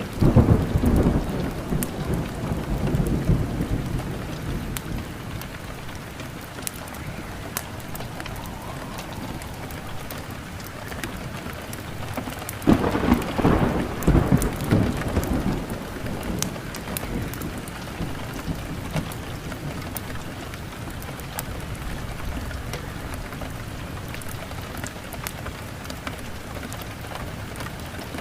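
Steady rain with two rolls of thunder, one right at the start and another about halfway through, each rumbling for a few seconds before fading back into the rain.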